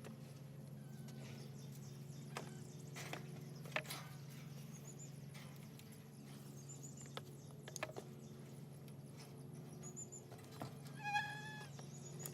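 Faint scattered clicks and taps of building material being handled over a steady low hum. Several short high chirps run through it, and a brief pitched animal call sounds about eleven seconds in.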